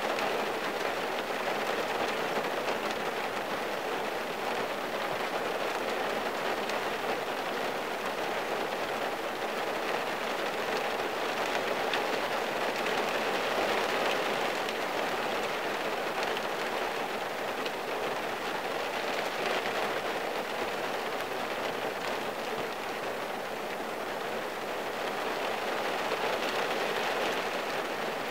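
Rain falling on a car's windshield and roof, heard from inside the cabin: a steady patter with single drops ticking through it.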